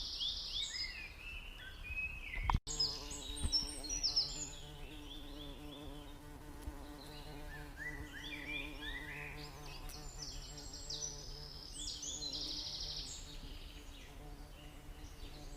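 Canary singing: fast trills and rapidly repeated high chirps in two long bursts with a few seconds' gap between. A low steady hum runs beneath from about two and a half seconds in, after a brief dropout.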